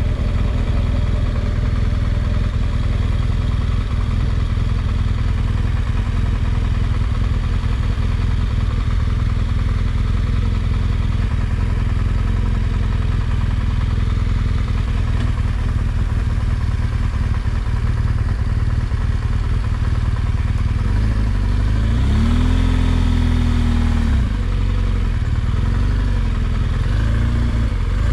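Motorcycle engine running steadily while riding at low speed, its pitch rising and falling several times near the end as the throttle and speed change.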